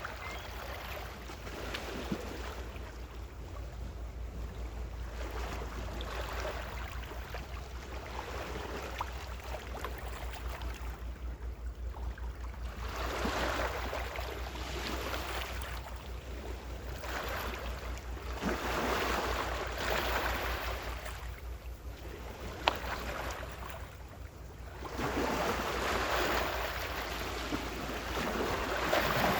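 Gentle ocean waves washing up on the shore, each swelling and fading every five or six seconds, over a steady low rumble.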